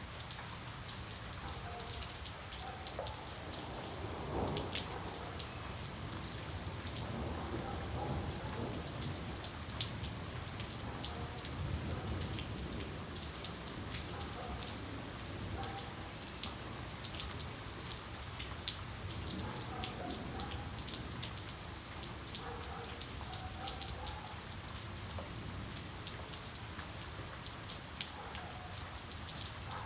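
Steady rain falling, with many individual drops ticking sharply close by. Low rumbles of distant thunder swell about four seconds in and again around twelve seconds.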